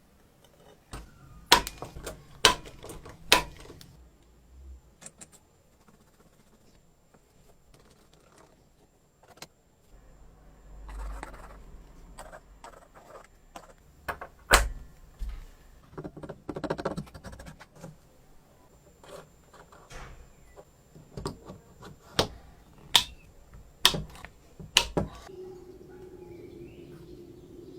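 Small metal parts clicking and clinking as they are handled, with a dozen or so sharp taps spread out at irregular intervals. A steady low hum comes in near the end.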